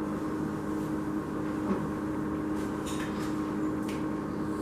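A steady mechanical room hum with a few faint light clicks.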